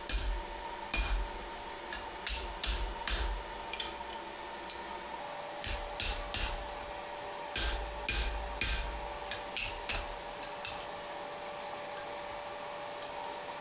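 Blacksmith's hammer striking hot steel at the anvil in irregular blows, some in quick pairs, each with a short metallic ring, easing off near the end. A steady hum runs underneath.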